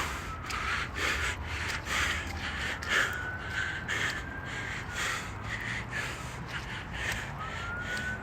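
A runner's hard, rhythmic breathing and footfalls, about two a second, with a faint high tone in the background that slowly rises and falls twice.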